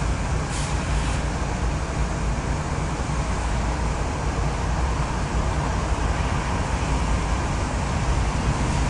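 BNSF double-stack port freight train rolling slowly past on the main line, slowing to a stop: a steady low rumble of diesel engines and wheels on rail. Two brief high-pitched clicks come about half a second and one second in.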